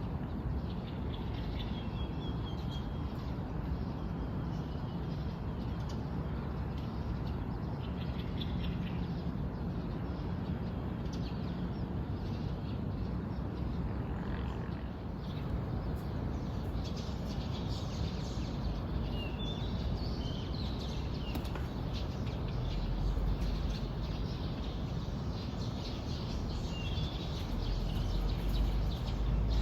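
Small birds chirping in short, scattered phrases over a steady low rumble that grows louder near the end.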